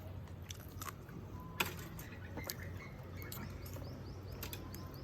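A bird chirping in a quick run of short repeated notes through the second half, over a steady low hum, with a few sharp clicks scattered through.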